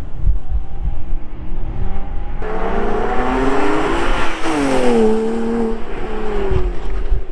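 Porsche Cayman R's flat-six engine pulling hard as the car passes at speed, its note rising and then dropping sharply in pitch as it goes by, then fading.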